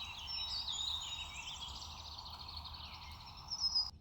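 Several birds chirping and singing in quick, overlapping twittering phrases over a faint steady hiss. The sound cuts off abruptly just before the end.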